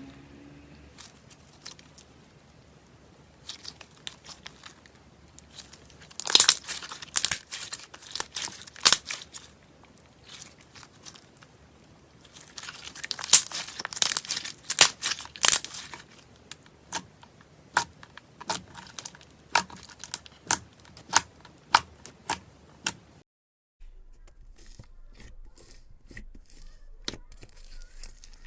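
Slime being squeezed and worked by hand, crackling and popping: dense crunchy clusters of crackles, then single sharp pops about one and a half a second. It cuts off suddenly near the end, and fainter clicking follows.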